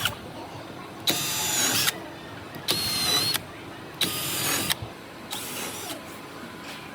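Power drill run in three short bursts, each under a second, with a high whine over a rasp.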